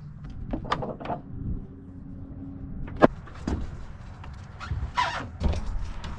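A vehicle's low running rumble with scattered knocks and clicks, and one sharp click about three seconds in.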